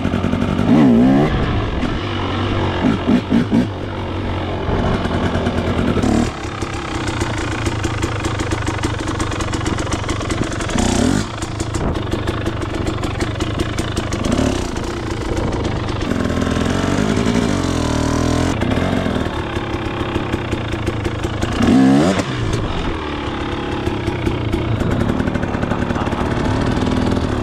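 KTM 250 XC two-stroke dirt bike engine running at low speed, with repeated sharp throttle blips that make the pitch rise and fall: a quick run of three about three seconds in, and others around 11 and 22 seconds.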